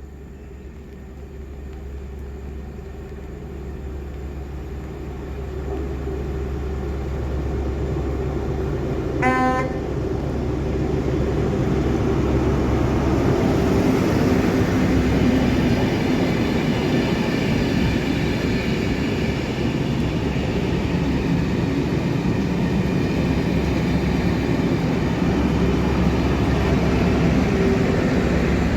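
A train approaching and getting steadily louder over about twelve seconds. It gives one short horn blast about nine seconds in, then runs past close by, loud and steady, with engine and wheel noise.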